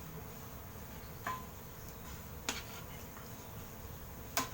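Three short, sharp clicks, the last near the end and the loudest, over a faint steady background buzz.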